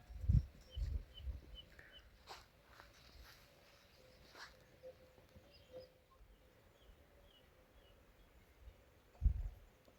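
Faint outdoor ambience with a small bird's short, repeated chirps, broken by a few low thumps near the start and one near the end.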